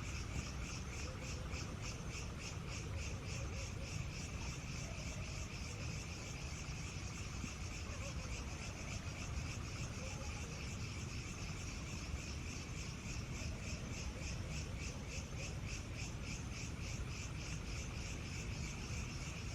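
Insects, likely crickets, chirping steadily in a rapid, even pulse. Beneath them runs a steady low rumble.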